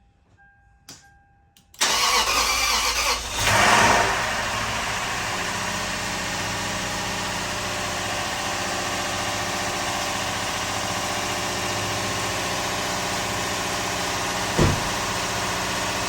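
Lexus GX470's 4.7-litre V8 on its first start after a rebuild: after a short electronic chime it cranks, catches with a quick rev about two seconds later, then settles into a steady idle, which the owner thought sounded a little funny. A single knock near the end.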